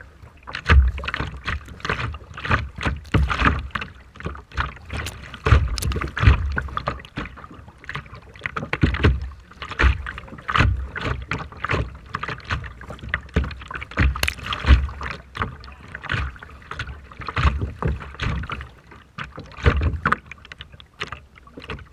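Rough sea water splashing and sloshing in irregular surges, with strong wind buffeting the microphone in low rumbling gusts.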